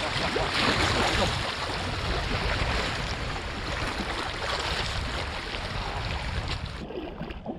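Seawater rushing and washing at the shoreline, a steady noise that drops away sharply near the end.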